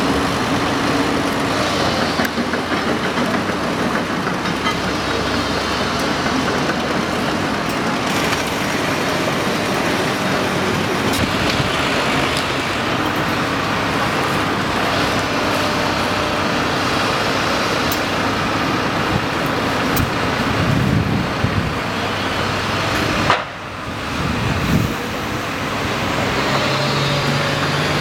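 Excavator running and working: a steady, loud, noisy mechanical din with an engine note that shifts in pitch. It drops out briefly and suddenly near the end.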